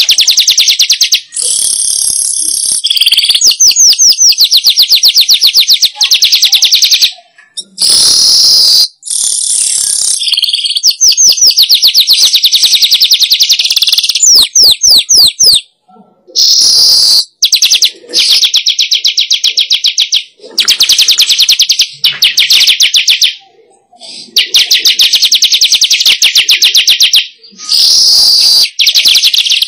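Weaver bird (manyar) song played loud as a lure call: long phrases of fast, high trilling chatter, each a few seconds long, repeated with short pauses between them.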